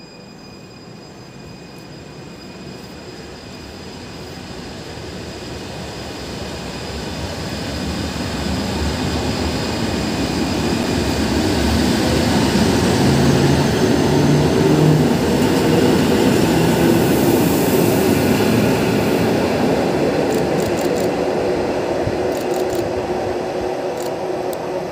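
Electric multiple unit EN61-001 running in along the platform: a steady rumble of wheels and running gear that grows louder as it approaches, is loudest about halfway through as its cars pass close by, then eases slightly.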